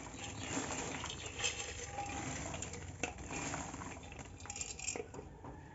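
Metal cookware being handled: scattered light clinks and taps over a faint steady hiss.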